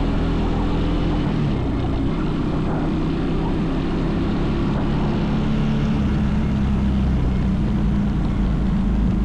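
Mini bike's small engine running steadily under way, its drone topped by a rushing noise.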